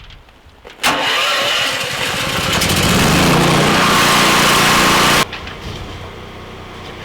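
A motor starts suddenly, its pitch rising over about a second and a half, then runs steadily and cuts off abruptly about five seconds in.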